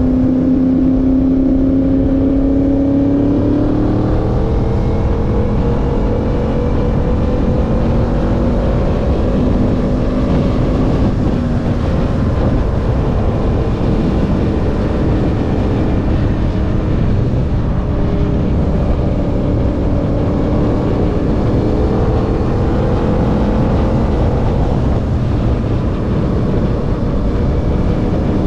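Engine running while riding, its pitch climbing about three seconds in as it accelerates and then rising and falling gently, over steady wind rush on the microphone.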